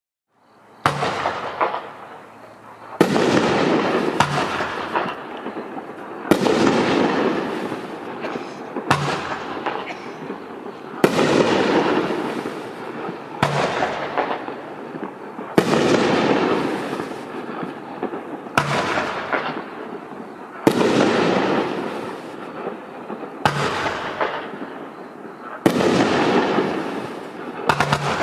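9 Lives multi-shot firework (FCC1832) firing one shot after another, about a dozen sharp reports every two to three seconds. It starts about a second in, and each shot trails off in a noisy decay lasting a second or two.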